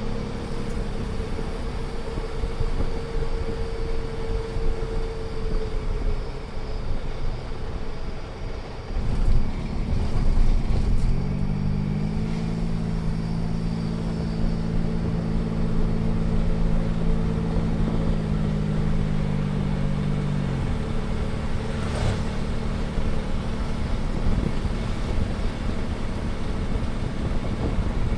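2008 Ford Edge running and driving, with a steady low droning hum that rises in pitch about a third of the way in, holds, then drops back. The owner attributes the noise to a failing transfer case.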